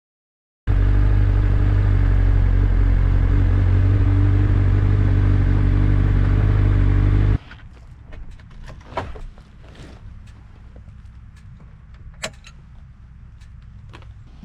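Motorcycle engine running at steady revs, loud and close, for about seven seconds, then cutting off abruptly. After the cut there is a much quieter background with a few scattered clicks and knocks.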